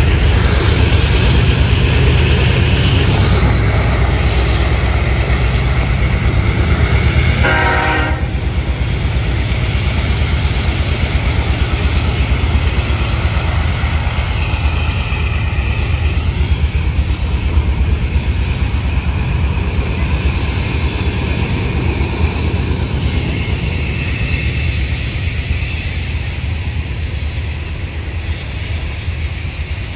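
Train of Herzog ballast hopper cars rolling past with a steady low rumble of wheels on rail. A short tone is heard about eight seconds in.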